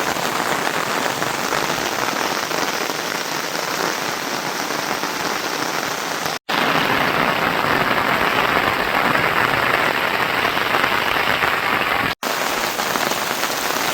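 Steady rain falling, an even hiss that cuts out for a split second twice, about six and twelve seconds in.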